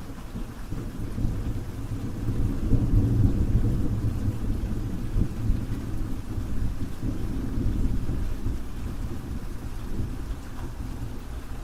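Steady rain with a low, rolling rumble of thunder that swells a few seconds in and then eases.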